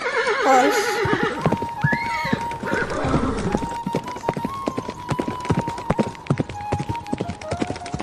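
A horse whinnies once, a wavering call falling in pitch, followed by hooves clip-clopping quickly and unevenly.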